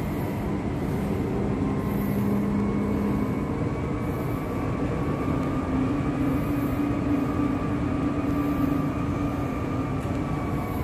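MTR West Rail Line IKK electric train running at a station platform: a steady rumble with a few held motor whine tones that shift slowly in pitch.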